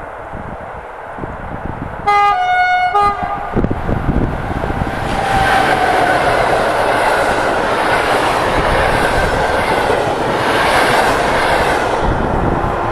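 PKP Intercity passenger train sounding its horn once, a blast of about a second that steps in pitch. The train then passes close by at speed, its rolling noise loud for about eight seconds before dropping away near the end.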